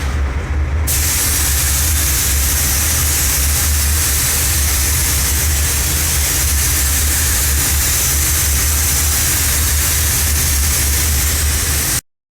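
Audi A5 3.0 TDI V6 diesel running at a steady engine speed: a deep, even drone with a hiss over it that comes in about a second in. The sound cuts off abruptly near the end.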